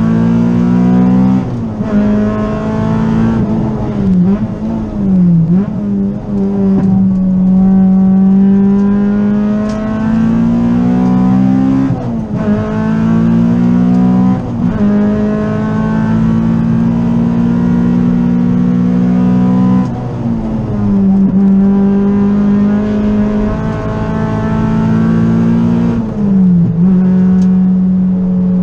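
Honda Civic EG's B18C four-cylinder VTEC engine, heard from inside the cabin under hard track driving. The revs climb steadily and then drop sharply several times, as it is driven through gear shifts and corners.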